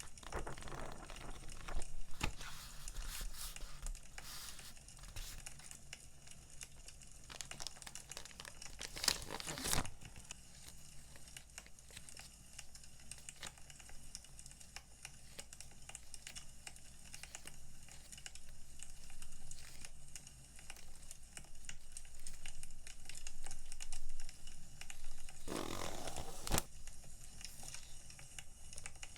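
Crinkling and rustling of paper and plastic packaging being handled, with bouts of tearing-like rustle, over the faint crackle of a wood fire.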